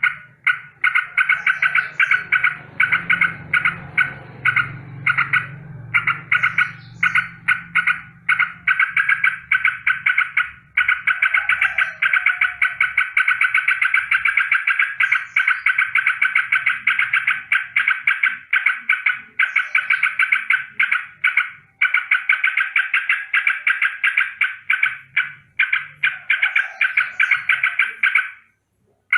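Yellow-vented bulbul giving its rolling rattle: a fast run of harsh notes repeated many times a second, in long bouts with short breaks. It is an alarm call, which the uploader takes as a warning of danger.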